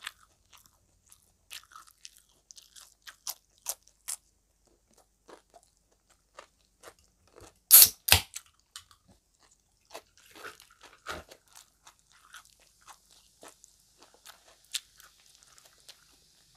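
Close-up chewing with soft crunches of fresh cucumber, scattered all through. About eight seconds in come two sharp knocks as the soda can is picked up, then a faint fizzing hiss as cola is poured over ice.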